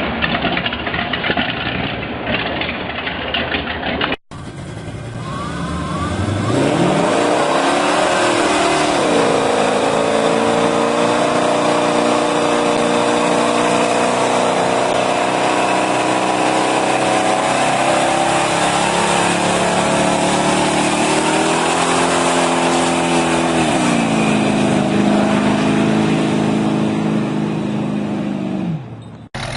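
Muscle car engine revving up and held at high revs for about twenty seconds during a burnout, with a dip or two, then dropping back near the end. Before that, a few seconds of another stretch of engine noise that cuts off abruptly.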